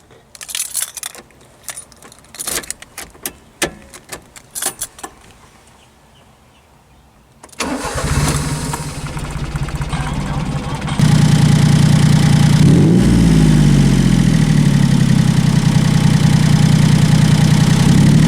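A run of clicks and knocks, then the Honda Acty kei truck's engine cranking on the starter for about three seconds before it catches. It runs up in a short rev and settles into a loud, steady idle, just after its carburetor has been cleaned.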